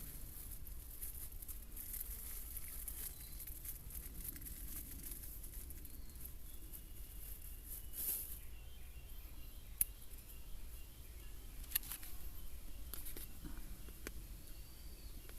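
Outdoor ambience: a steady high-pitched insect hiss with faint bird chirping, and two sharp clicks near the middle.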